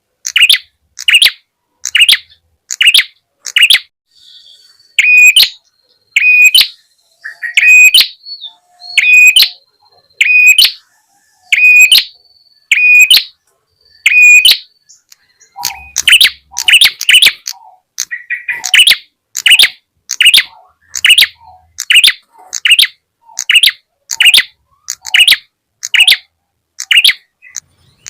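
Looped recording of a prenjak's call, played as a bird lure: sharp chirping notes repeated evenly, about two every three seconds at first, then quickening and taking on an extra lower note about halfway through.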